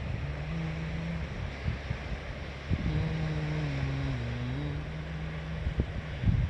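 Wind rumbling on the microphone, with a faint low engine drone that shifts up and down in pitch a few times before fading near the end.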